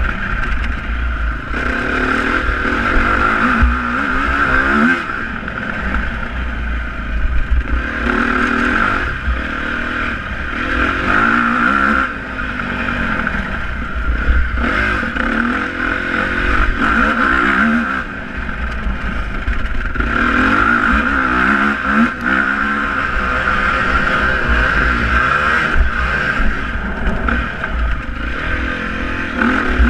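Motocross motorcycle engine running hard, its pitch rising and falling over and over as it revs up and backs off.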